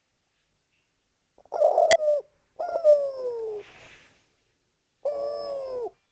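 Spotted dove cooing: three drawn-out coo notes, each falling in pitch, the first starting about a second and a half in. A sharp click sounds during the first coo.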